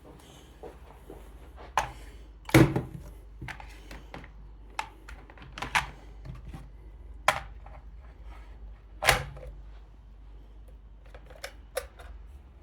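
Irregular clicks and knocks of small hard objects being handled and set down on a hard surface, with two louder thuds about two and a half and nine seconds in, over a low steady hum.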